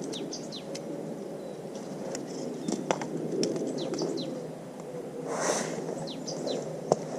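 Small birds chirping, a series of short downward-sliding calls repeated several times, over a steady low rushing background, with a few sharp clicks and a brief rustle about five and a half seconds in.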